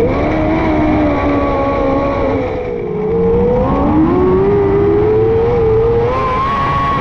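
Micro sprint car's 600cc motorcycle engine at racing speed, one car heard clearly. The revs drop and pick up again as the throttle is lifted and reapplied through the corners: the pitch falls near the start and again about three seconds in, then climbs and holds high.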